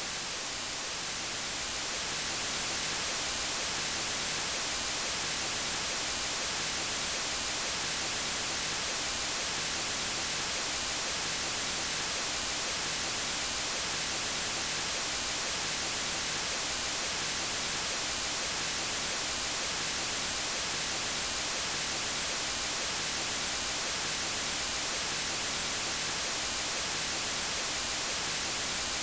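Steady white noise: an even, featureless hiss weighted toward the high frequencies, dipping slightly in level about a second in before holding steady.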